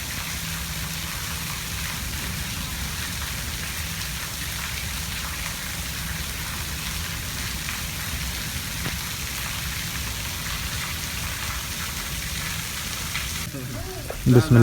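Monsoon rain falling steadily, an even hiss of many drops; the hiss thins a little just before the end.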